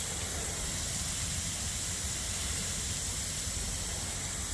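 Steady hissing noise with a low, fluttering rumble underneath and no distinct events.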